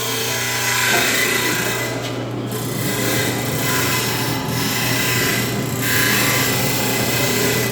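Drill press running with a steady motor hum while its bit grinds into a metal part, a rough, uneven cutting noise over the hum.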